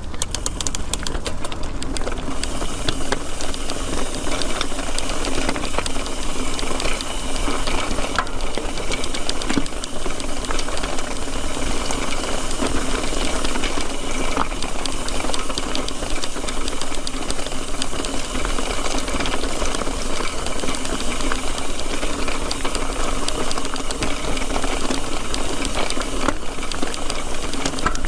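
Mountain bike rolling downhill over a rough trail, its frame and chain rattling with many small clicks, under steady wind rush on the camera microphone.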